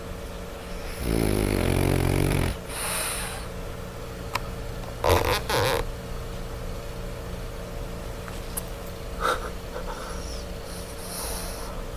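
A French bulldog snoring in her sleep. There is one long, loud snore about a second in, followed by a hissing breath, then two short snorts around the middle and a smaller one later.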